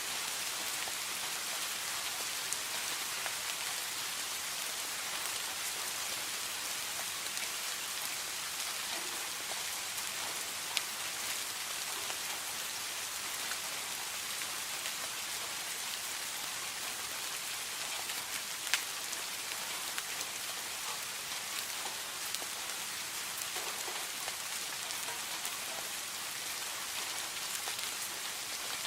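Steady rain falling, an even hiss with scattered sharper drop ticks, two of them standing out about eleven and nineteen seconds in.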